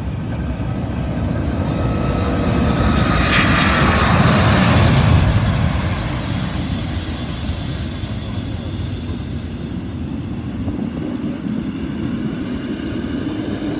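Airbus A380 jet engines at takeoff power as the airliner passes by. The roar builds to its loudest about four to five seconds in, with a whine falling slowly in pitch, then settles into a steady rumble as it climbs away.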